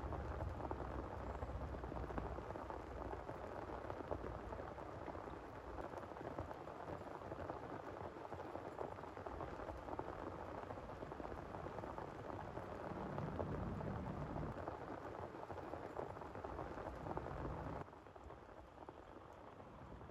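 Heavy rain pattering steadily on a surface, with a low rumble at the start and again about two-thirds of the way through. Near the end the rain suddenly becomes quieter.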